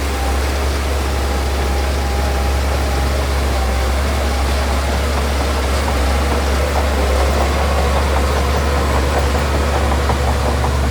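Heavy earthmoving machine's diesel engine running steadily with a deep hum. A rapid rattle joins about halfway through.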